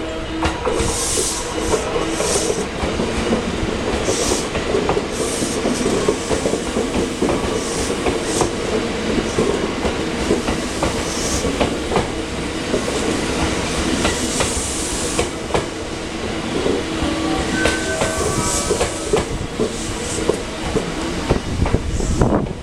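JR West 287 series electric train moving through the station, its wheels clicking over rail joints and points over a steady running rumble with a faint motor whine, and short bursts of hiss recurring throughout.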